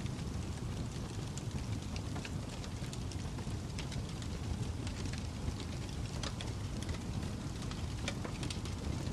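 Crackling fire: a steady low rush with sharp pops and snaps scattered through it, a few every second.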